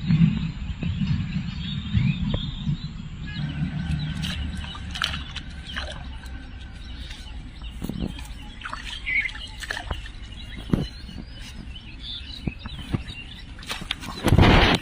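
Birds chirping, with scattered short clicks and knocks, a low rumble during the first few seconds, and a loud noisy burst near the end.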